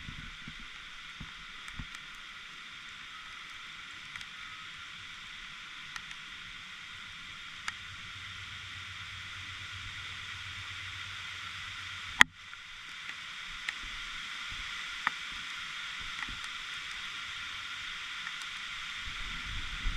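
Heavy rain falling steadily, heard muffled through a GoPro's waterproof case, with scattered sharp ticks of hits on the case and one loud knock about twelve seconds in.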